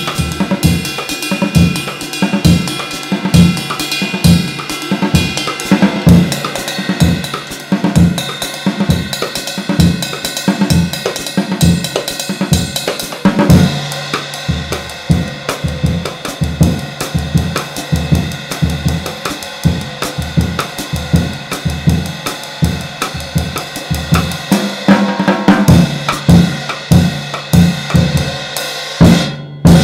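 Drum kit groove played on very light, hand-hammered bronze ride cymbals of 18 and 19 inches, the ride washing over a steady, even pulse of bass drum and snare strokes.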